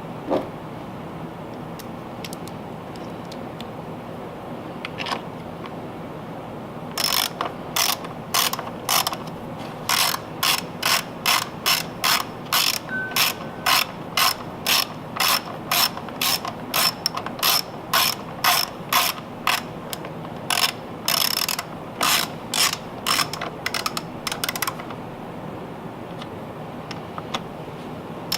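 Hand ratchet clicking in short strokes, about two a second, starting a few seconds in and stopping shortly before the end, as fasteners are turned during reassembly of a Honda EU2000 generator.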